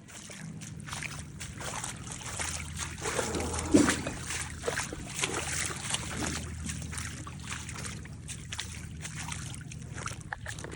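Fast-moving floodwater rushing and splashing, with a steady low hum underneath and a louder splash about four seconds in.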